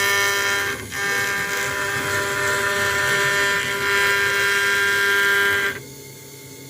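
CNC router engraving an acrylic sheet: its motors and cutting spindle running with a steady, high-pitched whine over a hiss. The sound dips briefly about a second in and falls much quieter near the end as the machine's motion changes.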